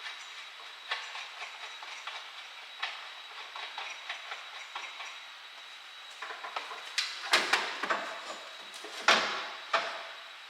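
Metal parts and tools being handled at a workbench: scattered light clicks and knocks, then louder bursts of clattering knocks about seven seconds in and again about nine seconds in, over a faint steady high whine.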